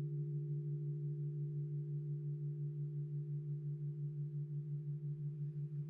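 Crystal singing bowls ringing on in a sustained low tone with a few fainter higher tones above it, wavering in a steady pulse several times a second.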